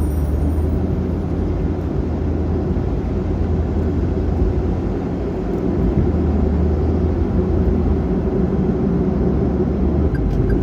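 A car being driven, heard from inside the cabin: a steady low rumble of road and engine noise. A light, regular ticking starts near the end.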